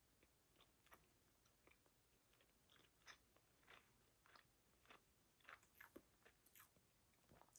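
Very faint chewing of a mouthful of smoked lake trout: soft, irregular mouth clicks, coming more often from about three seconds in.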